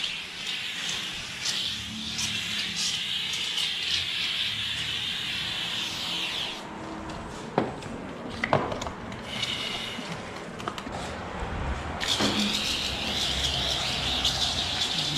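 Hand-pumped foam sprayer with a foamer nozzle hissing as it sprays soap foam, for about six seconds. It stops for a few seconds, with a couple of sharp clicks and knocks, and starts hissing again about twelve seconds in.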